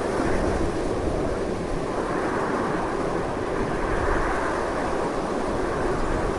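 Strong, continuous wind: a steady rush of noise that swells and eases slowly, heaviest in the low and middle range.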